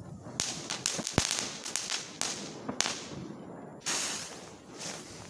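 New Year's fireworks and firecrackers going off: a quick, irregular string of sharp cracks and bangs, the loudest about a second in, followed about four seconds in by a short hissing burst that fades.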